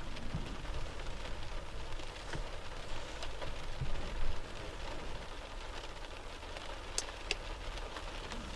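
Steady heavy rain falling, with a low rumble underneath and a couple of sharp drip ticks about seven seconds in.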